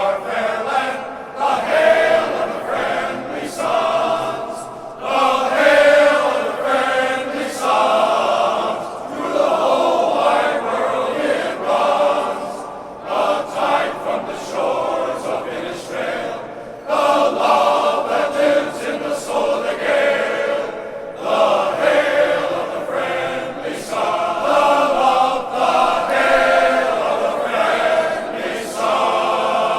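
A men's glee club choir singing an Irish song, in sustained phrases with short breaks between them.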